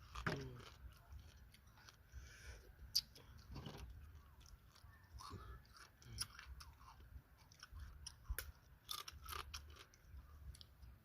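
A person chewing and biting food: soft, irregular crunches and mouth clicks.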